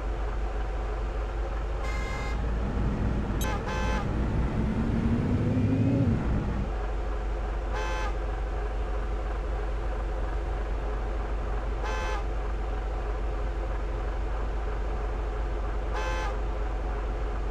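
Heavy truck's engine running steadily, revving up with a rising pitch for a few seconds about three seconds in, then settling. Short horn toots sound several times, about every four seconds in the second half.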